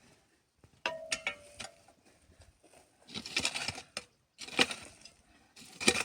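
Objects being handled: a few sharp clinks about a second in, one ringing briefly, then several short bursts of rustling.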